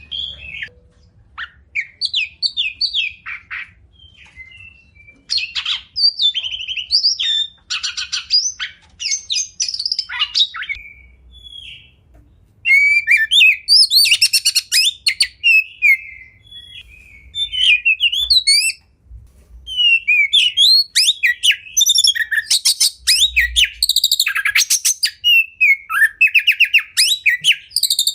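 Oriental magpie-robin (kacer) singing a varied song of short whistled phrases and rapid chattering trills, sparse at first and denser and busier in the second half.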